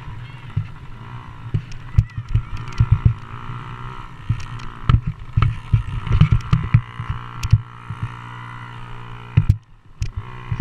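Motocross dirt bike engines running steadily, with many short low thumps on the microphone and a brief dip in sound about nine seconds in.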